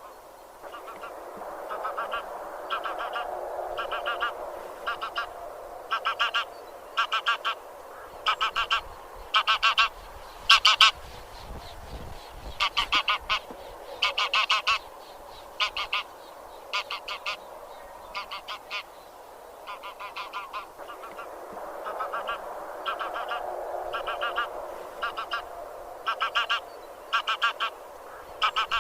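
Geese of the genus Anser honking: a run of repeated honks, each broken into two or three quick notes, growing louder over the first half, thinning out, then building again near the end, over a steady lower background noise.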